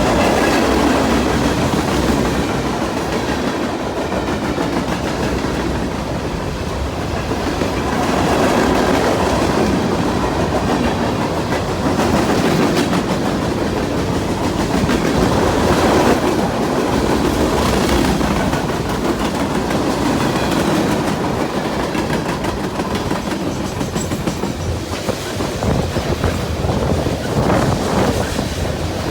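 A train rolling past, a steady loud rumble of wheels on rails that swells and eases every few seconds.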